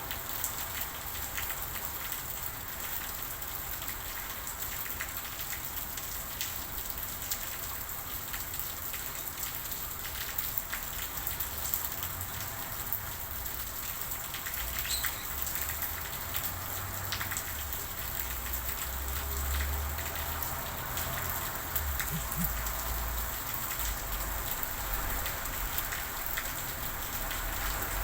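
Steady rain: an even hiss of rainfall with many separate drop hits ticking through it. A low rumble comes and goes under it in the second half.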